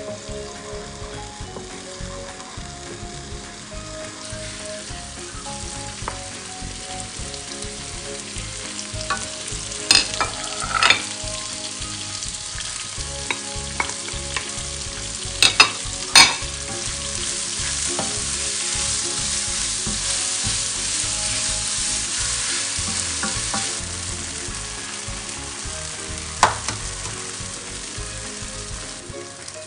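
Blended spice paste and chopped cabbage and mustard greens sizzling in a hot non-stick pan on a gas hob, stirred and scraped with a wooden spatula. A few sharp knocks of the spatula against the pan and plate come in the middle, the sizzle grows louder a few seconds later once the vegetables are in, and there is one more sharp tap near the end.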